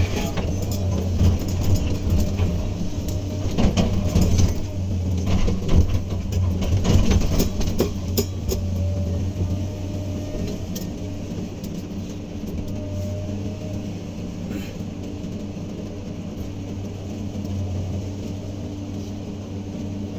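Hydraulic excavator's diesel engine running with a steady hum, with knocks and rattles over the first several seconds, then running more evenly.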